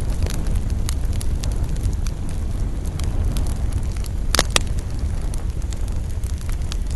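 Campfire burning: wood crackling with scattered sharp pops over a low steady rumble. A louder double pop comes about four seconds in.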